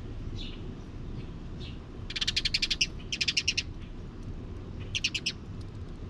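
A small bird calls in rapid chattering trills, three bursts about two, three and five seconds in, with a few fainter chirps before them. A steady low rumble sits underneath.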